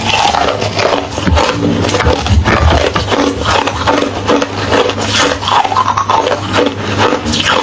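Hollow ice being chewed close to the microphone: rapid, irregular crunches and cracks.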